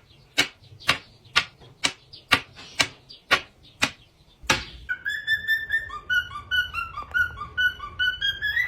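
About ten sharp clicks, evenly spaced about two a second, then a parrot whistling a string of short chirpy notes that rise and fall.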